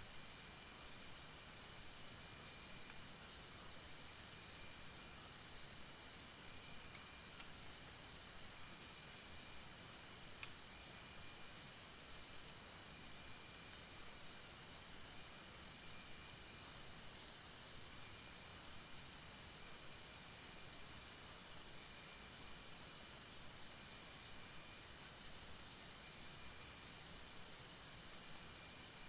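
Night-time jungle insect chorus: a steady, high-pitched pulsing trill, with short high ticks scattered throughout over a faint background hiss.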